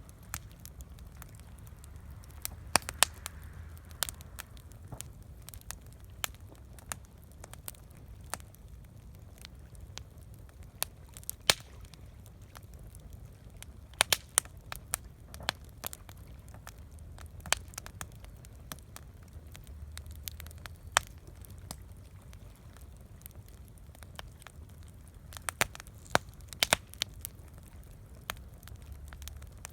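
Campfire crackling: irregular sharp pops and snaps of burning wood, a few much louder than the rest, over a low steady rumble.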